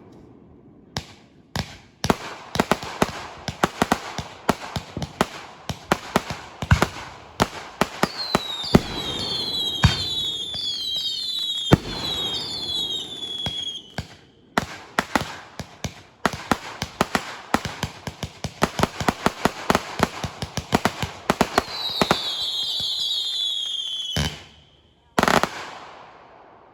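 Fireworks going off in rapid succession: a dense string of sharp bangs and crackles. Twice, a run of overlapping whistles falls in pitch, once about a third of the way in and again near the end.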